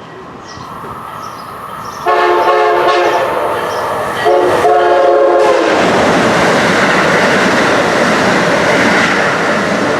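Amtrak Acela high-speed train sounding its multi-note horn as it approaches: one long blast about two seconds in, then a short blast and another longer one. From about halfway in, the train is rushing past loudly with rail clatter.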